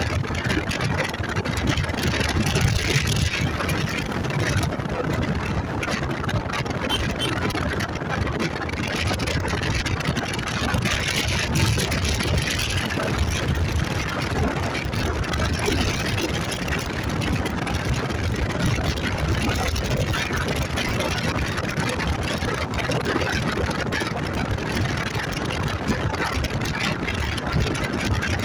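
Motorcycle engine running steadily at riding speed, mixed with constant wind rush on the microphone.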